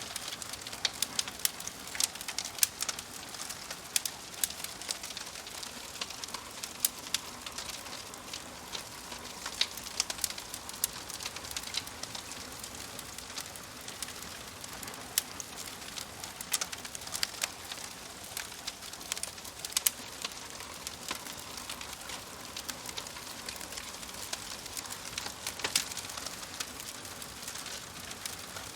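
Wood fire in a fireplace crackling: a steady hiss with frequent sharp pops and snaps at irregular intervals.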